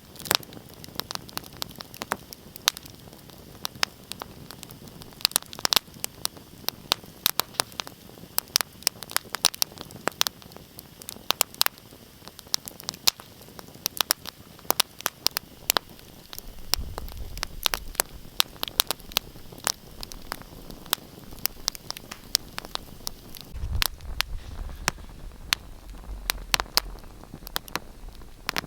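Wood fire in a fireplace crackling: frequent sharp pops and snaps over a steady hiss. A low rumble swells in twice in the second half.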